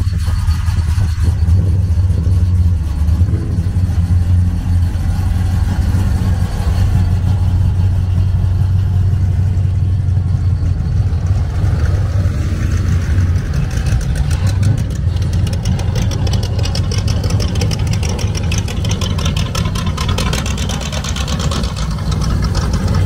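Car engines running at low speed as a lowered early-'60s Chevrolet Impala and a hot rod coupe roll slowly past, with a steady low exhaust rumble that eases about two-thirds of the way through.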